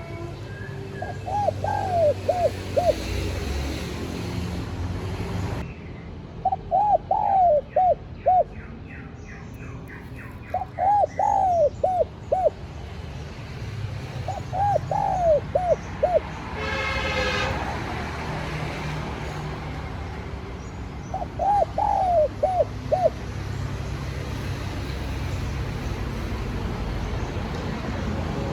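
Spotted dove cooing: five phrases of several short coo notes each, a few seconds apart, over a low steady background hum. A short honk-like toot comes about two-thirds of the way through.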